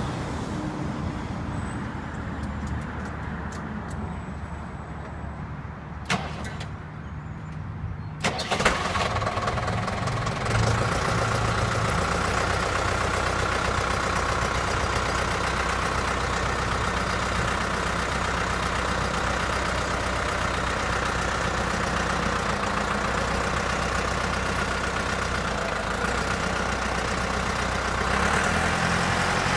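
Deutz four-cylinder air-cooled diesel engine of a 1995 AGCO Allis 6690 tractor running. A few clicks and a knock come around six to eight seconds in. From about ten seconds in it runs louder and steadily.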